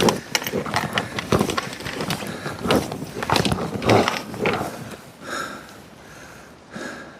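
Irregular footsteps and clothing rustle of a person walking a rough path, with hard breathing from the climb. The steps thin out about five seconds in.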